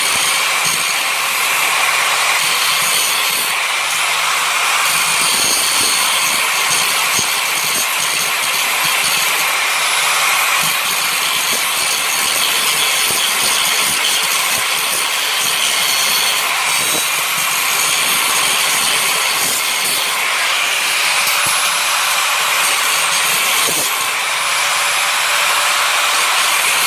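A power tool running steadily under load, cutting into a metal bed frame. The noise is continuous and even, with no pauses.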